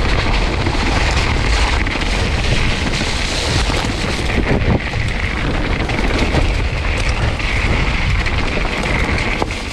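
Mountain bike riding down a wet, rough trail: wind buffeting the camera microphone, rain and tyre noise, with scattered knocks and rattles from the bike over the ground.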